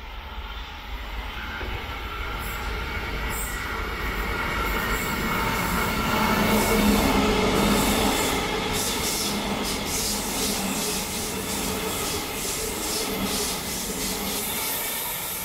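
Queensland Rail electric suburban train approaching and running past along the platform. Its sound builds to a peak about seven seconds in and stays loud, with a steady whine from the train. In the second half comes a rapid regular run of clicks as the wheels pass over the rail joints.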